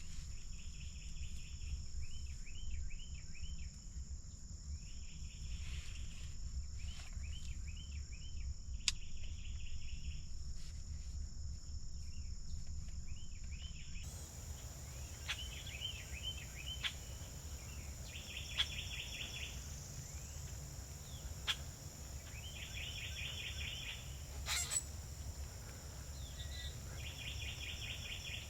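Turkey yelping: short runs of rapid notes, each run about a second long and repeated every few seconds, over a steady high insect drone.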